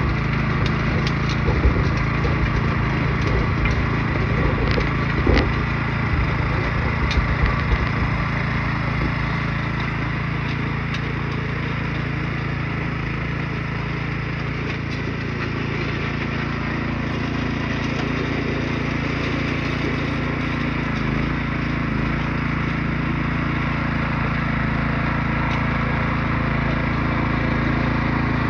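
A small engine running steadily, with sharp clicks and knocks over it in the first several seconds.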